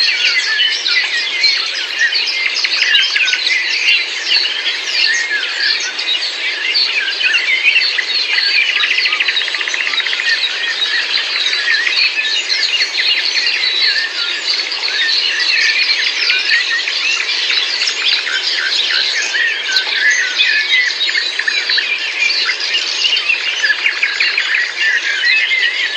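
A dense chorus of many birds singing and chirping at once, countless short overlapping calls with no pause.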